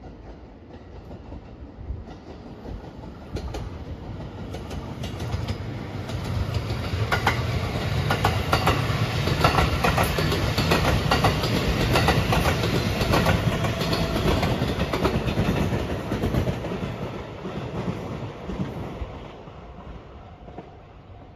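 Rapid Marine Liner electric multiple-unit train passing close by: its running noise grows from faint to a peak about halfway through, with clacks of the wheels over rail joints, then fades away.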